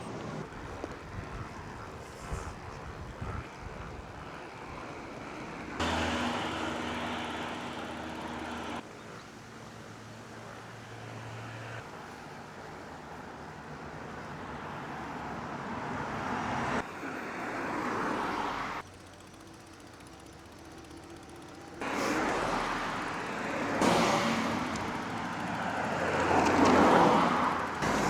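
Road traffic noise from passing cars, in short segments that change abruptly every few seconds. Near the end a vehicle approaches and passes, growing louder and then fading.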